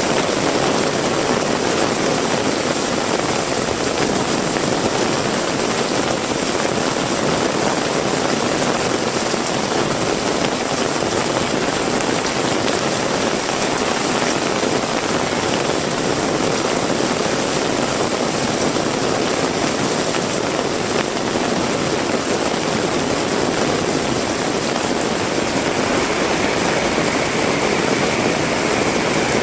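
Heavy rain falling steadily, an even dense hiss of rain on the ground, with no break. A faint high whine comes in near the end.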